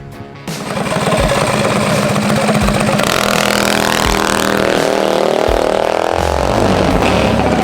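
Minibike engines racing, starting loud about half a second in and running at high revs, with the pitch sweeping up and then down.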